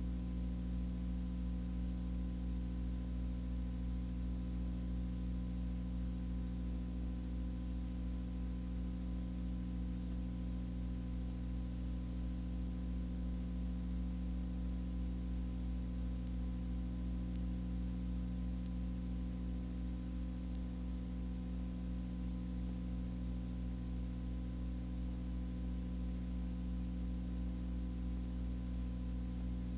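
Steady low hum with hiss, unchanging throughout.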